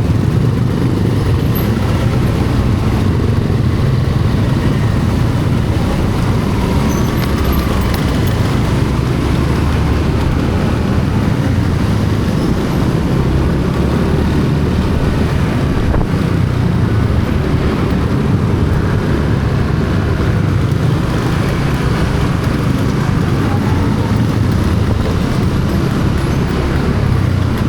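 Steady road vehicle and traffic noise: a continuous low rumble with no breaks or sudden events.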